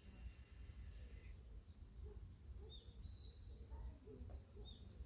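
Faint bird calls: a steady high whistled tone for about the first second and a half, then a few short chirps, over a low rumble.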